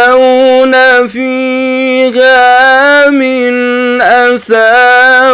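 A man's voice in melodic Quran recitation (tajweed), holding a long, loud ornamented note on a near-steady pitch, with brief dips and turns about once a second.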